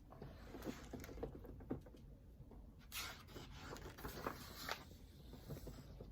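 Faint rustling and scraping with small clicks as a picture book is handled, with a louder rustle about three seconds in.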